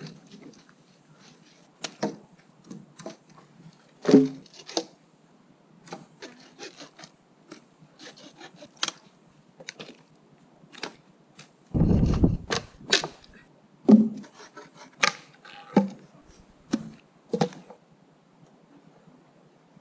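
Wood cracking and knocking at irregular intervals, as branches and sticks are snapped and handled, with a heavier low rumbling knock about twelve seconds in.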